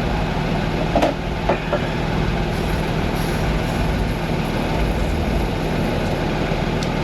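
Car engine idling steadily, running so the transmission fluid level can be checked at the pan's check hole, with a couple of light clicks about a second in.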